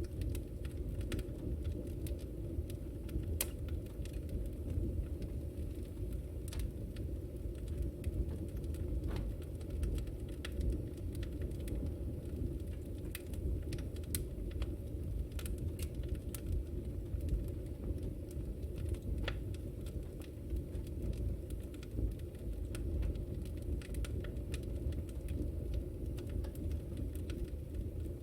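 Wood fire crackling in a fireplace: a steady low rumble of flame with irregular sharp pops and crackles scattered throughout.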